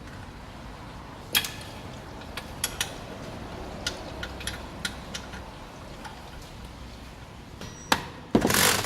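Hand tools clinking and knocking on metal, a dozen or so scattered sharp clicks, with a louder click just before the end. Near the end a loud power tool starts up with a rapid hammering rattle.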